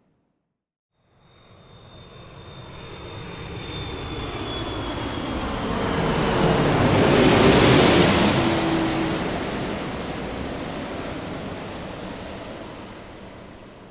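An airplane flying past: its engine noise swells to a peak about halfway through and then fades away, with a whine that drops in pitch as it goes by. It starts after about a second of silence.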